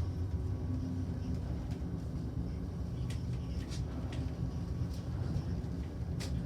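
Kone M-Series traction elevator car travelling down its shaft: a steady low rumble that comes up right at the start, with a few faint clicks along the way.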